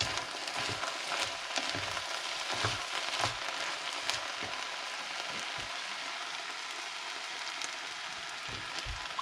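Rice and sautéed vegetables sizzling in a hot Dutch oven as chicken stock is poured in, with a few light knocks in the first few seconds.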